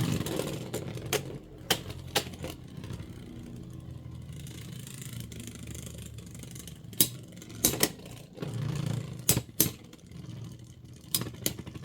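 Two Beyblade X spinning tops, Blackshell and Night Shield, whirring in a plastic stadium, with sharp clacks as they collide. A few clacks come in the first couple of seconds, then a stretch of steady whirring, then more clacks from about seven seconds on.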